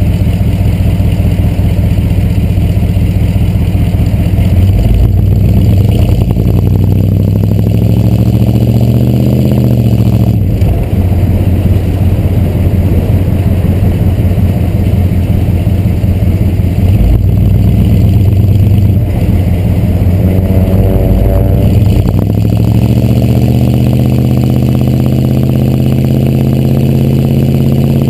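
A 6.2-litre Detroit Diesel V8 in a 1986 Chevrolet C30 dually pickup, heard through its exhaust stacks while driving. The engine note climbs for a couple of seconds and drops sharply about ten seconds in, like a gear change. It climbs again a little after twenty seconds and then holds steady at the higher pitch.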